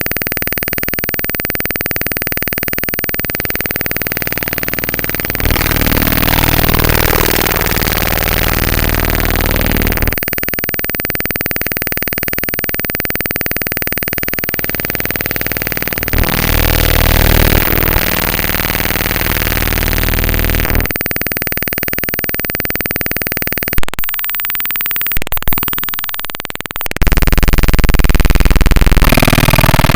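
Raw bytes of a Windows executable file played directly as audio: a harsh, continuous hiss and buzz carrying steady fixed tones, its texture shifting in blocks every few seconds as the data changes. About three-quarters of the way in come a few sharp clicks and a falling sweep, then a louder, denser buzz.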